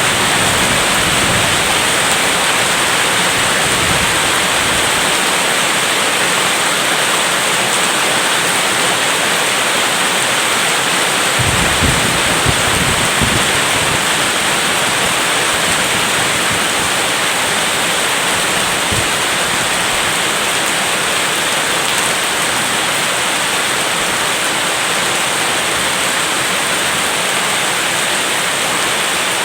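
Steady heavy rain with a constant dense hiss. A brief low rumble comes about twelve seconds in.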